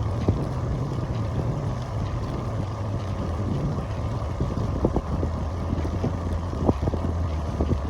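Cross bike being pedaled: a steady low rumble of wind on the microphone and rolling tyres, with irregular sharp clicks from the drivetrain. The uploader hears the noise as a 'jiiko-jiiko' creak that comes only when pedaling under the rider's weight and suspects the bottom bracket or the crank.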